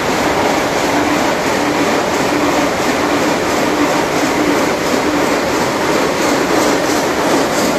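Marble gang saw running: the loud, steady din of the multi-blade frame saw cutting stone blocks into slabs, with a faint steady hum under it.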